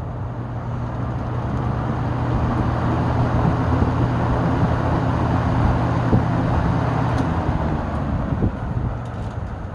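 Frigid SP20 five-blade box fan with a Westinghouse motor starting up: the air rush builds over the first few seconds over a steady motor hum. About seven seconds in the hum stops and the air noise begins to fade.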